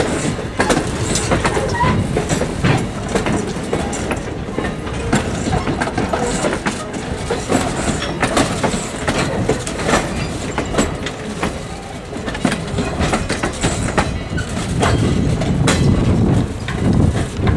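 Railroad cars of a steam-hauled heritage passenger train rolling on jointed track, the wheels clicking and clattering over the rail joints with a steady rumble.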